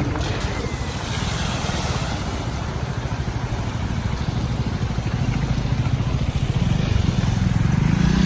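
Vehicle engine running steadily with a low pulsing beat, getting louder near the end.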